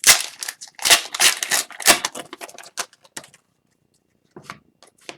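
An Upper Deck hockey card pack wrapper is torn open and crinkled, with several sharp rips over the first three seconds. After that come only a few faint clicks as the cards are handled.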